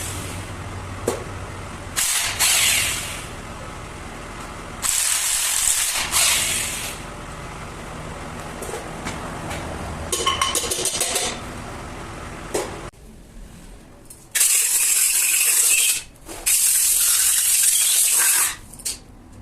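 Compressed-air blow gun hissing in about five short bursts of one to two seconds each, the longest two near the end, blowing off engine parts during a cylinder head rebuild. Quieter workshop clatter and a brief run of rapid clicks come in between.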